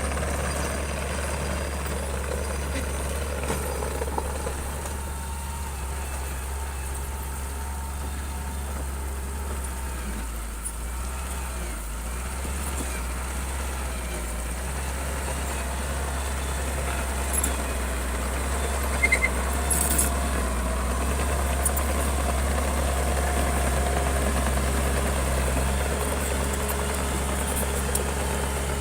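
Bulldozer's diesel engine running steadily, with a few sharp knocks about two-thirds of the way in.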